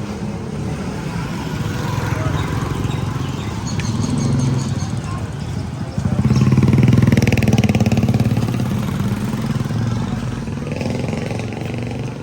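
A motor vehicle engine running steadily, with a sudden rise in loudness about six seconds in that eases off gradually.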